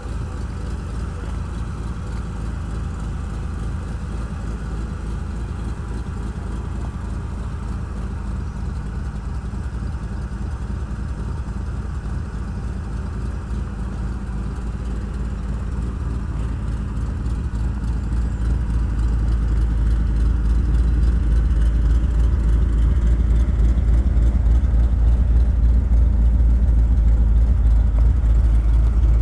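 1964 Chevy truck's 450 hp engine idling with a steady low rumble of fast, even firing pulses, growing louder a little past halfway and holding there.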